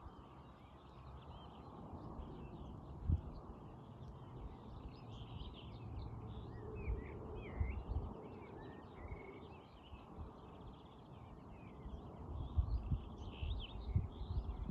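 Songbirds chirping and calling, many short quick chirps overlapping, over a steady low outdoor rumble. Occasional low thuds, the loudest about three seconds in and several more near the end.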